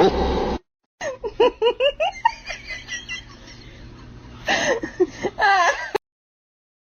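A person laughing: a quick run of short, high giggles, then a second burst of laughter later on that cuts off abruptly.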